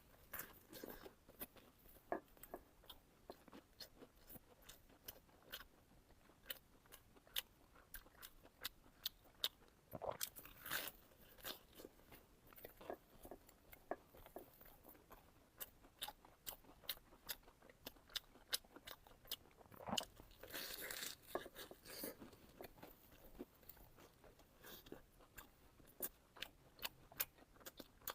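Close-miked eating of crisp fried bread: irregular crunchy bites and chewing with many small sharp mouth clicks, and longer bouts of crunching about ten seconds in and again about twenty seconds in.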